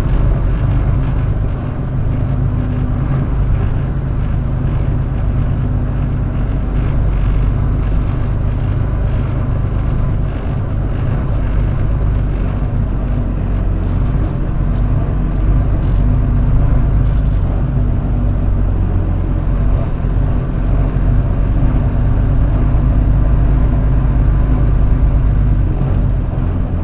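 Flatbed straight truck's engine running steadily at low speed while the truck moves slowly through a parking lot looking for a spot.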